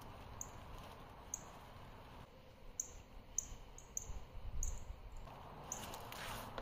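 A small bird chirping repeatedly in short, thin, high notes, over soft rustling as flower stems are handled and tied; the rustling grows louder near the end.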